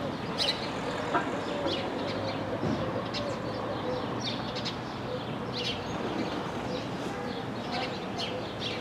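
Small birds chirping, short high calls coming every half second or so, over a steady low background hum.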